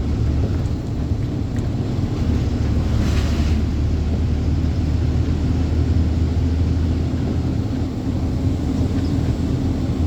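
Truck on the move: a steady low engine drone with road and wind noise, and a brief hiss about three seconds in.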